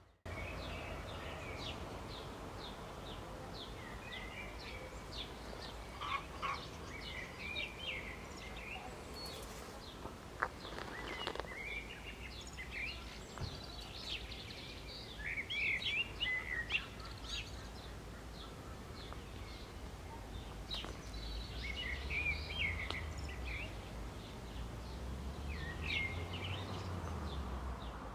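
Many small birds chirping and calling, short notes coming thick and fast, over a steady low background rumble.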